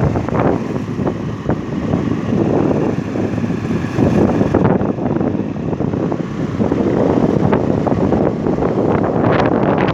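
Wind buffeting the microphone over the running of a moving vehicle, as an uneven, gusty rumble.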